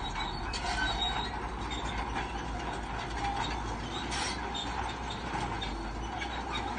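Shantui crawler bulldozer working: the diesel engine runs steadily while the steel tracks squeal and clank.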